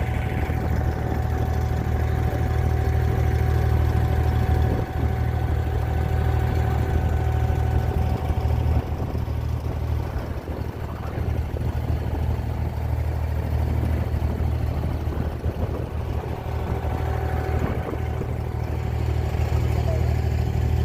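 Abra water-taxi engine running steadily: a deep, even drone with a faint steady whine above it.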